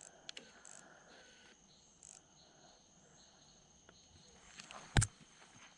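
Night insects, crickets, trilling steadily at a high pitch, with a single sharp click about five seconds in.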